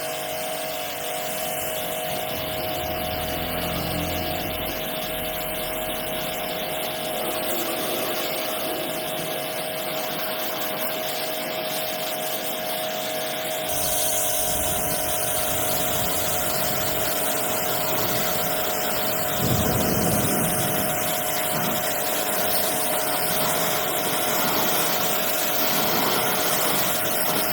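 A machine running steadily with a constant whine over a rushing noise; its sound grows fuller and slightly louder about halfway through.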